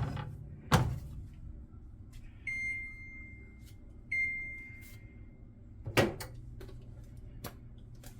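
Two electronic beeps from a kitchen appliance, about a second and a half apart, each fading out. Several thuds, like a door or cupboard being shut, come just before the beeps and again near the end.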